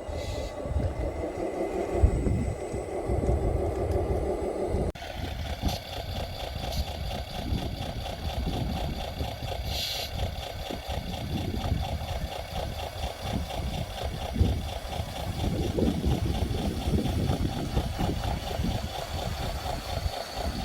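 Small motors of radio-controlled construction models running steadily with a wavering whine over a low rumble, changing abruptly about five seconds in.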